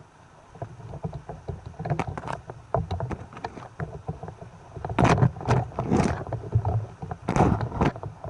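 Water splashing and sloshing around the camera in the sea, with many sharp clicks and a few louder splashes in the second half.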